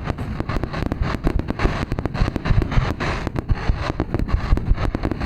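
Aerial fireworks going off in a rapid barrage, many booms and sharp cracks overlapping with no pause between them.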